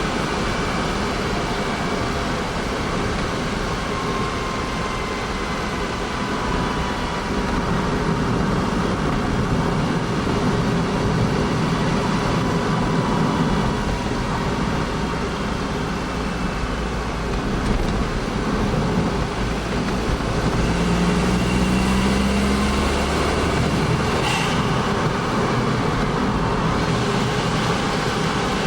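Honda S660's small turbocharged three-cylinder engine running steadily, with faint whining tones that drift slowly in pitch. The low drone swells for several seconds about two-thirds of the way through, and there is one short high tick near the end.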